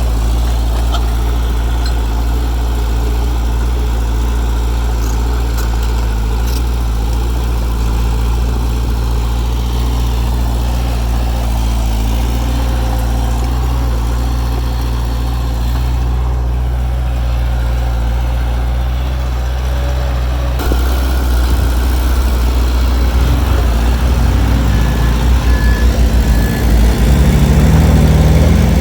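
Heavy diesel engine of earthmoving machinery running steadily. About two-thirds of the way in it gets louder and fuller, and near the end it pulses roughly. In the last few seconds a faint short beep repeats at even spacing.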